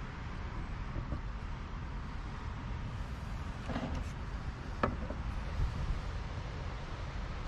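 Steady low rumble of strong wind buffeting, with a few light clicks and knocks about four and five seconds in.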